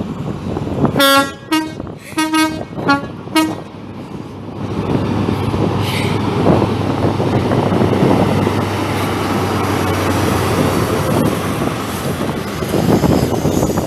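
Train horn sounding about six short blasts on two alternating notes, followed by the steady rumble of the train running.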